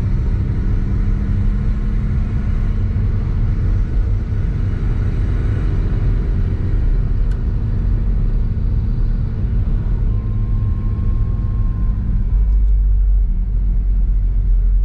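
Honda S660's small turbocharged three-cylinder engine, mounted behind the seats, running steadily with road rumble while the car drives along. The engine note changes about twelve seconds in as the low rumble grows.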